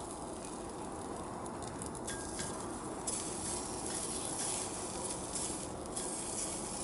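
Chicken laid on a hot cast-iron skillet, sizzling: a few light clicks, then a hissing sizzle starts about three seconds in and keeps going.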